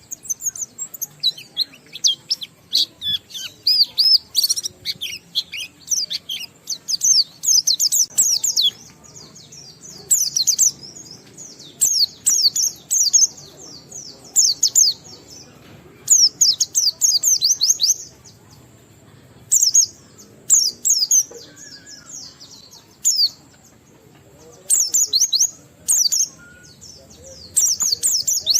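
White-eye (pleci) singing a fast, high-pitched twittering song, the long 'ngalas' style of pet white-eye song. It runs almost unbroken for the first several seconds, then comes in bursts of one to two seconds with short pauses.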